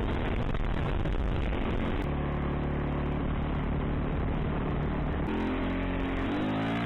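Yamaha YZ450F dirt bike engine under way with wind rushing over the microphone. From about two seconds in it holds a steady note, steps up a little past five seconds, and revs up in a rising pitch near the end.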